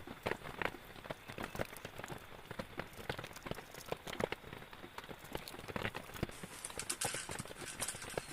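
Rain falling, with many irregular sharp drip taps striking a surface over a steady hiss of rain; the hiss swells briefly about seven seconds in.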